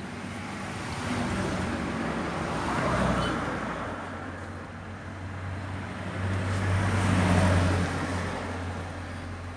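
Road traffic: two vehicles passing one after the other, each swelling and fading, the second louder.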